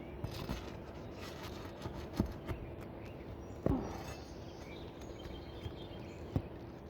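Asphalt shingles being worked loose with a tool: scattered taps, scrapes and knocks, with one louder knock and creak about three and a half seconds in. The shingles are stuck fast to the roof and cracking as they are lifted.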